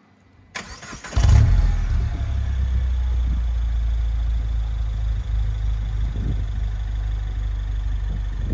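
Peugeot 208 GTi's 1.6-litre turbocharged four-cylinder starting through a MUSKETIER quad-tip stainless-steel sport exhaust: a brief crank about half a second in, a loud flare as it catches just after a second, then a steady low idle.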